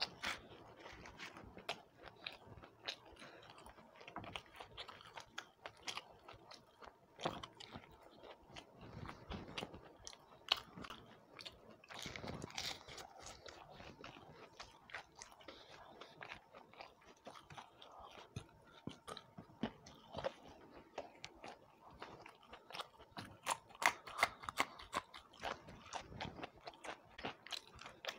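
Close-miked chewing and crunching of fried pakoda and kakra pitha: a steady run of crisp bites, crackles and wet mouth sounds, with a louder stretch of crunching near the end.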